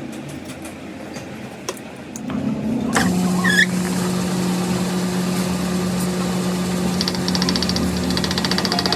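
A machine motor starts about three seconds in and runs on with a steady hum, with a brief squeal as it starts and fast, light ticking joining in later.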